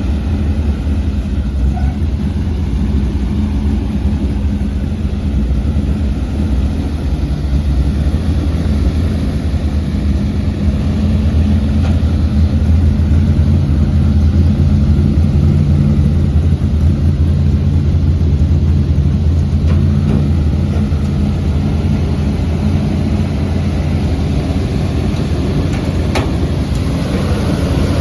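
1977 Ford 600 single-axle truck's engine running steadily, a little louder for several seconds in the middle.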